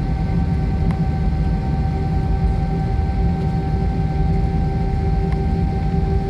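Steady drone inside an airliner cabin on the ground before takeoff: a low rumble with an even, multi-tone whine running over it, and a faint tick about a second in.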